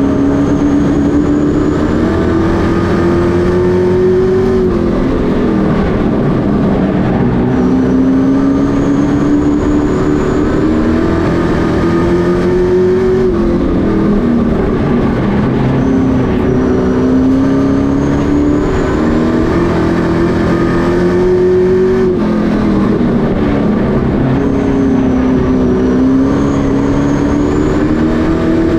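Pro Truck racing engines running at full race speed on a short oval. The engine note climbs steadily for several seconds, then drops off and climbs again, over and over, as the trucks accelerate off the corners and lift going into them.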